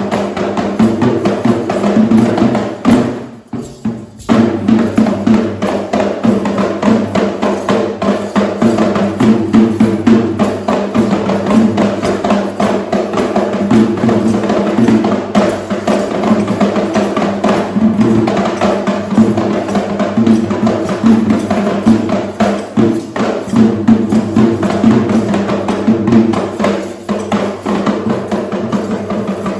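Sri Lankan traditional drumming: an ensemble of hand drums playing a fast, dense rhythm with sharp, wooden-sounding strokes. It breaks off briefly about three seconds in, then carries on.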